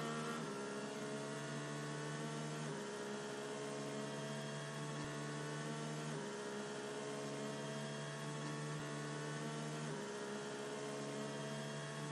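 Steady electronic drone made of a stack of held tones that creep slowly upward in pitch, shifting to a new chord every few seconds.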